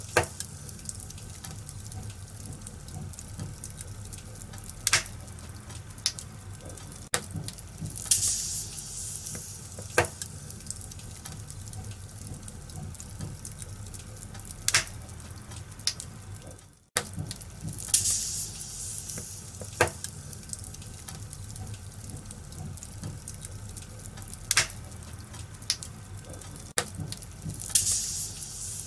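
Wood fire crackling in a fireplace: a steady hiss with sharp pops every couple of seconds and a few louder hissing flare-ups. The sound cuts out for an instant about two thirds of the way through.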